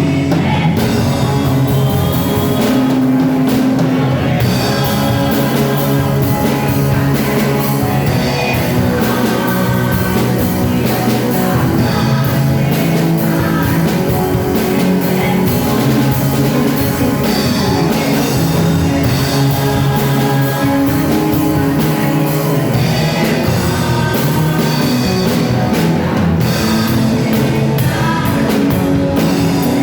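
A band playing a worship song, with singing over drums and guitar.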